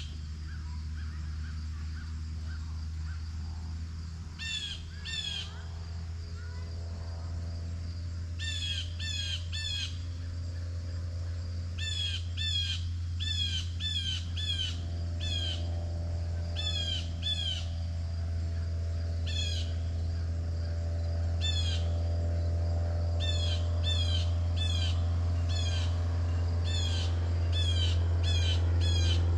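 A bird calling repeatedly outdoors: short, downward-slurred notes in quick runs of two to five, over and over, above a steady low rumble that grows a little louder near the end.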